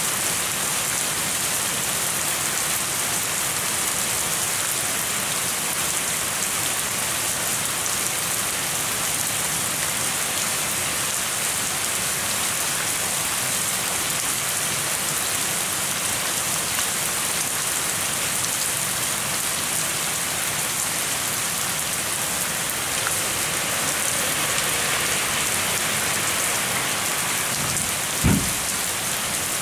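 Steady rain falling, an even hiss throughout. Near the end, a single brief low thump.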